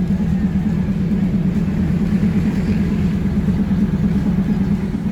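Diesel train engine running with a steady low drone.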